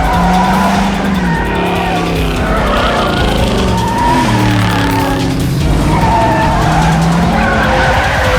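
Car engines revving hard and tyres squealing in a movie car chase. The engine pitch rises and falls repeatedly.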